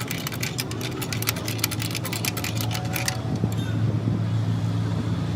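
Rapid, irregular clicking that stops abruptly about three seconds in, over a steady low machine hum.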